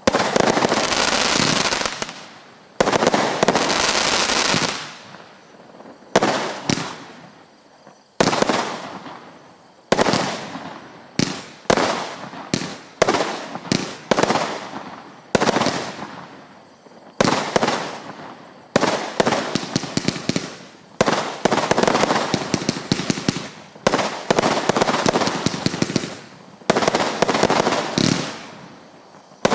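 Lesli Hurricane Force firework battery firing a long run of shots. Each shot comes in suddenly and loud and trails off over a second or two, spaced a few seconds apart at first and then following close on one another in quick volleys.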